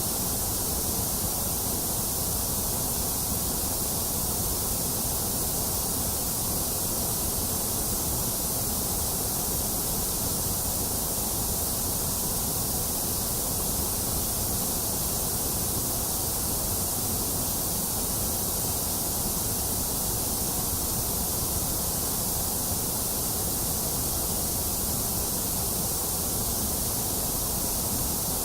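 Continuous white noise for soothing a baby: an even, unchanging hiss with a strong high end.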